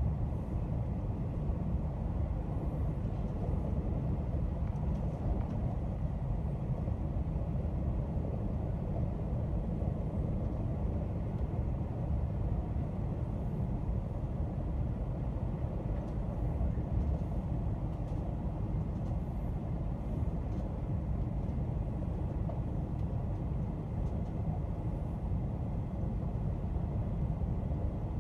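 Steady low rumble of a moving train heard from inside the passenger car: wheels and running gear on the rails at an even speed.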